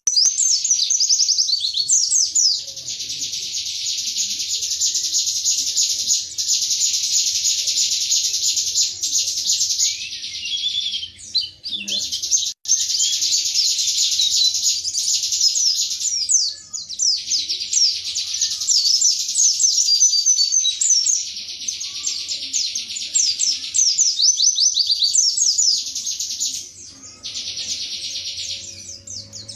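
Pleci (white-eye) singing a long, fast, high-pitched twittering song in rapid-fire bursts ("tembakan"), broken by a few short pauses.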